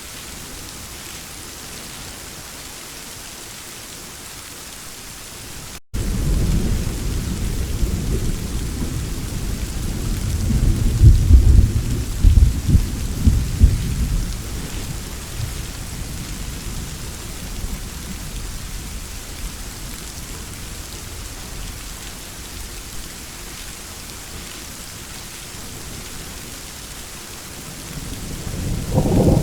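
Steady rainfall with rolling thunder. About six seconds in, after a momentary dropout, a loud low rumble of thunder sets in, grows loudest with cracks a few seconds later, then fades back under the rain. A second rumble swells up near the end.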